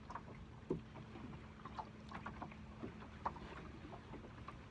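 Scattered light clicks and knocks of fishing tackle being handled in a small boat, likely the angler switching to a smaller squid jig, over a faint steady hum.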